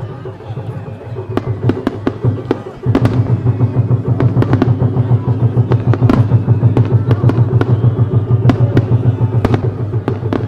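Fireworks starmine barrage: a rapid string of sharp shell bursts and bangs that thickens and gets louder about three seconds in, with music playing underneath.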